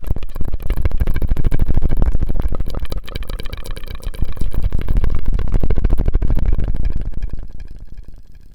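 Close-miked ASMR mouth sounds made with a drinking straw: a dense run of rapid small wet clicks and pops, fading away near the end.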